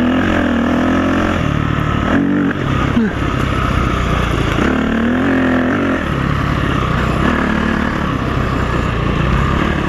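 Off-road bike engine running under way, its pitch rising and falling as the throttle is worked, over steady rushing noise.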